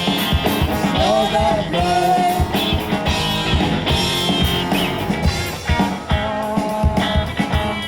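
Rock band playing: a singer's voice over guitar, bass and drums with a steady beat.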